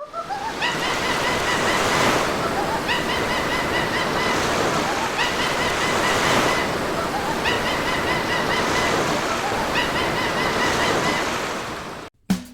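Ocean waves washing in, swelling every couple of seconds, with short, high, pitched calls repeating in groups over them. It cuts off suddenly near the end.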